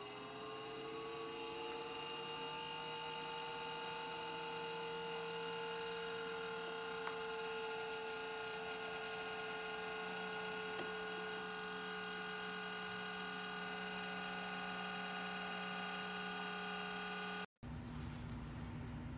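A small electric motor humming steadily on several pitches, its pitch rising and settling just after it starts. It cuts off abruptly near the end.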